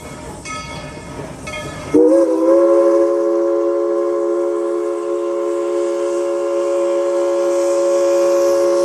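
Steam locomotive #190 blowing one long chime whistle blast of several tones at once, starting about two seconds in and held steady. Before it, the locomotive's bell rings about once a second over the train's running rumble.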